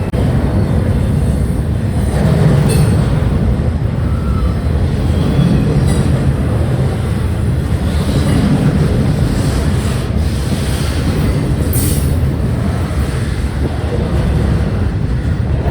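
Double-stack intermodal freight train cars rolling past: a steady, heavy rumble of steel wheels on rail, with a few brief sharp metallic clanks or squeals now and then.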